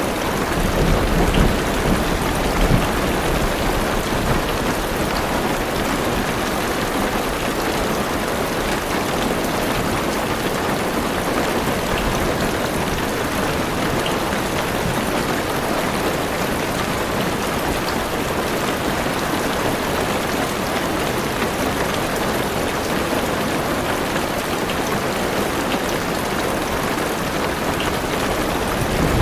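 Steady heavy rain on a car's roof and windows, heard from inside the car, with a low rumble of thunder in the first few seconds.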